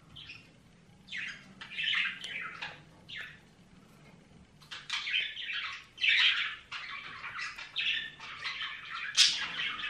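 A small bird chirping and squawking in runs of short, high calls, with a pause around four seconds in.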